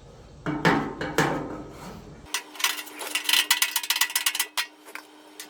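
Hammer blows on a sheet-metal car body panel being reshaped: a few heavy separate strikes, then a fast run of lighter taps.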